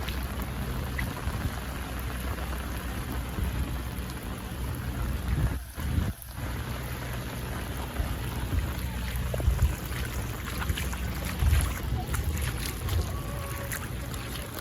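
Steady rain and wind noise with a low rumble underneath. Scattered sharp taps come in the second half, and the sound drops out briefly about six seconds in.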